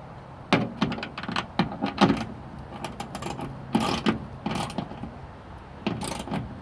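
Ratchet wrench with a 9/16 deep socket clicking in quick runs while a wing-mirror mounting nut is tightened, with two longer rasping strokes later on.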